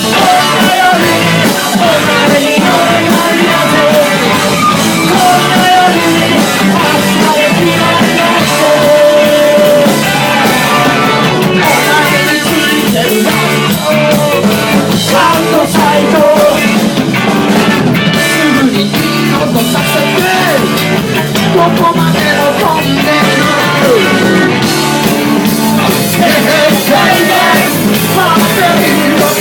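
Live rock band playing loudly, with electric guitar, bass and drums behind a singer's vocal.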